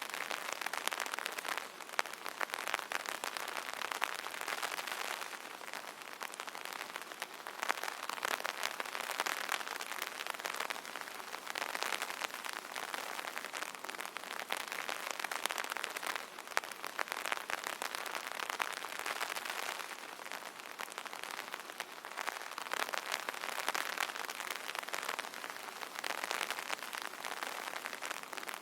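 Steady rain drumming on an umbrella canopy: a dense patter of many small drop impacts that swells and eases gently every few seconds.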